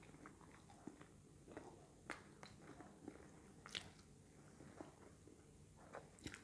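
Faint chewing of a soft bread roll: wet mouth sounds with a few sharp clicks, the loudest about two and four seconds in.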